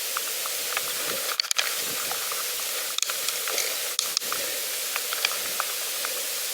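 Steady hiss of a bicycle rolling along a path, tyre noise with scattered small irregular clicks and pops from the ride.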